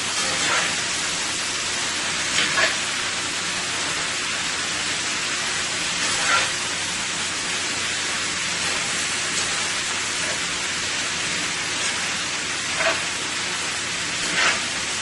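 Chicken, broccoli and cabbage in a soy-oyster sauce sizzling steadily in a hot pan, with a few short scrapes of a utensil stirring the pan.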